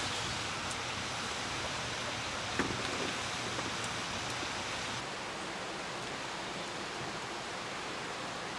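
Steady rushing of a mountain valley stream, an even wash of water noise, with a single soft knock about two and a half seconds in.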